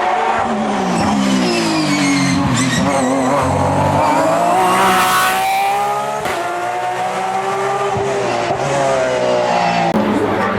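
Race car engine accelerating hard on a hill climb, its pitch rising through each gear and dropping at the upshifts, about three times.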